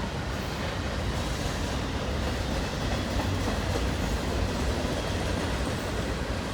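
Freight cars of a long mixed manifest train rolling past trackside, a steady rumble of steel wheels on the rails.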